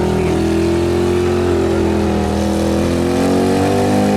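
Modified pulling lawn tractor's engine running hard, its pitch sagging a little through the middle and climbing again near the end.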